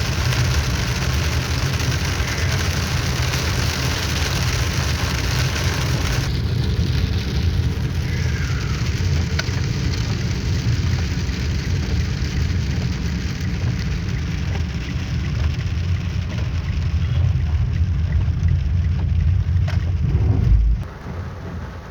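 Heavy rain pelting a moving car, with road and engine rumble, heard from inside the cabin. Near the end the low rumble stops abruptly and the rain carries on more quietly.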